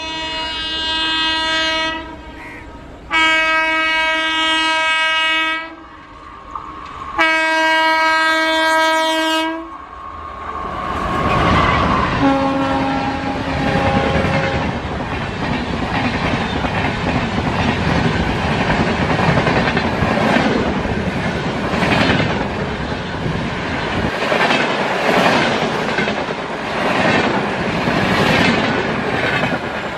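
Indian Railways WAP4 electric locomotive sounding its horn in three long blasts as it approaches at speed, with a shorter, lower note as it reaches the camera. Its coaches then rush past with a steady roar and a regular clickety-clack of wheels over rail joints.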